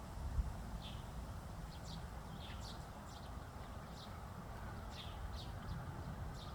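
Small birds chirping in short, high calls, about two a second, some sweeping downward, over a steady low rumble.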